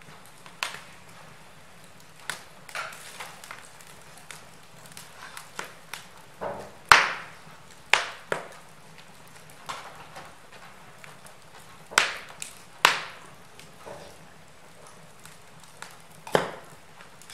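Wood fire crackling in a fireplace: irregular sharp pops and snaps over a faint steady hiss, the loudest about halfway through.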